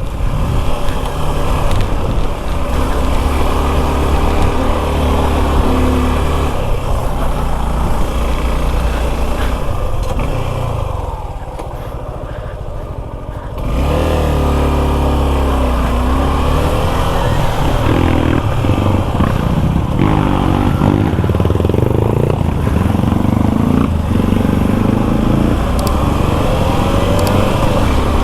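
Suzuki V-Strom 250 SX single-cylinder engine running while riding, easing off for a couple of seconds a little before the middle and then pulling again.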